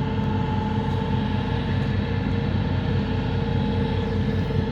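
An engine running steadily under load: a low drone with a constant whine above it.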